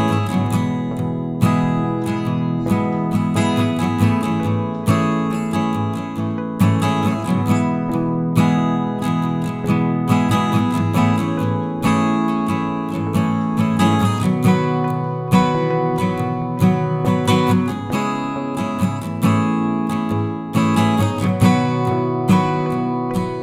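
Background music: a solo acoustic guitar, strummed and plucked, with regular chord changes.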